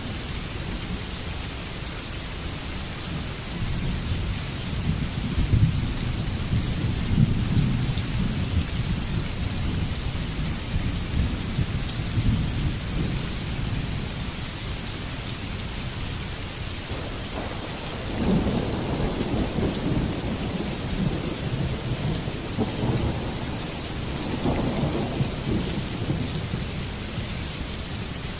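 Heavy rain falling steadily, with two long rolls of low thunder: one from about 4 seconds in that fades by about 13 seconds, and another beginning about 18 seconds in.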